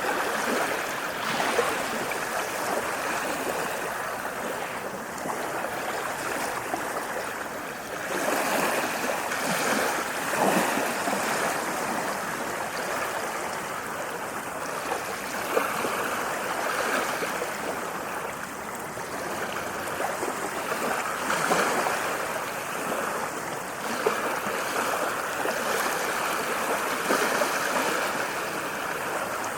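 Ocean waves washing in on the shore: a continuous rush of surf that surges louder every few seconds as each wave comes in.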